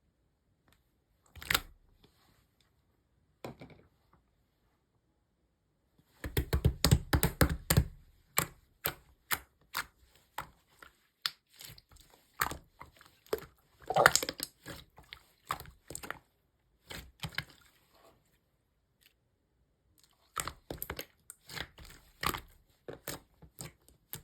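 Slime being squeezed and pressed by hand, making sharp sticky clicks and pops. There are a few lone ones at first, then dense runs with short pauses between them.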